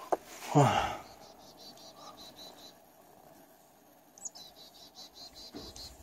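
A small bird calling in two runs of rapid, high-pitched notes, about eight a second. The second run opens with a quick downward whistle.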